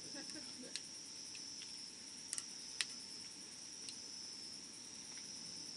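Steady high-pitched trilling of crickets, with a few sharp crackles and pops from the burning wood of a campfire, the loudest nearly three seconds in.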